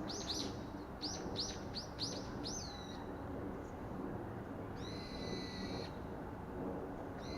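Bird calling: a quick run of short, high chirps for about three seconds, then a longer held high call, and another starting near the end.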